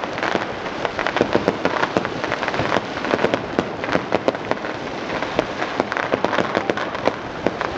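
Fireworks going off in a dense, continuous crackle of many small, sharp bangs.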